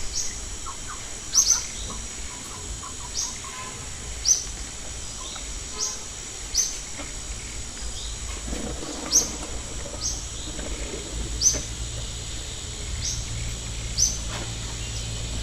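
A bird giving short, high chirps that fall in pitch, repeated about once a second, over a steady high-pitched whine.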